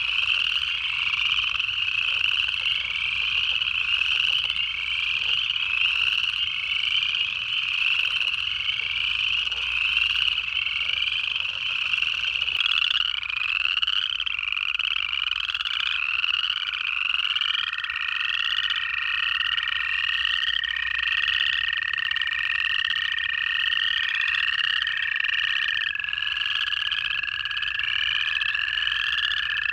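Chorus of upland chorus frogs: many overlapping ascending trills, one after another. A little past halfway, a long, steady, lower trill from an American toad starts and carries on under them.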